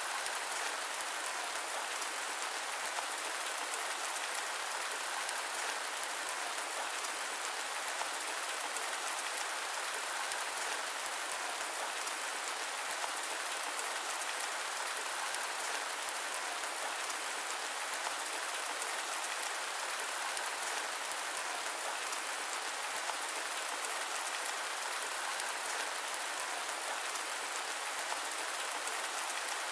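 Steady rain falling: an even, unchanging hiss with no low rumble and no thunder.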